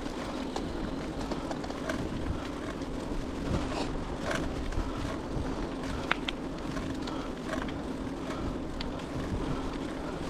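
Bicycle being ridden along a trail: steady tyre and wind noise, with scattered small clicks and ticks from the bike.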